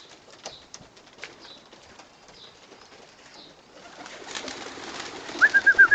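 Racing pigeons at their loft: light clicks and cooing, then a louder rush of flapping wings from about four seconds in as the flock takes off. A quick run of short high chirps comes near the end.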